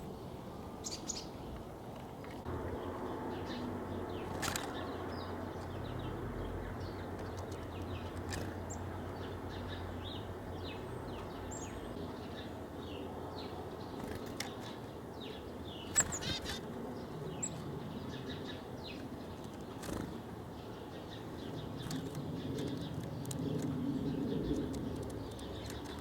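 Outdoor background with small birds chirping in short calls, a few sharp clicks, and a steady low rumble.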